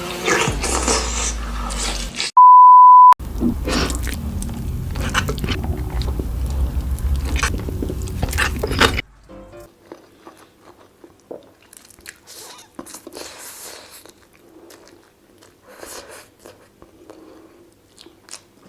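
Loud music with a heavy bass line, broken about two seconds in by a steady one-second beep tone. About nine seconds in, the music stops and close-miked crunchy biting and chewing of food follows, in sharp crackles.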